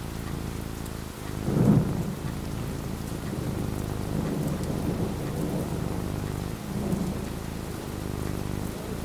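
Steady rain falling, with a thunderclap about one and a half seconds in that rumbles on more quietly for several seconds.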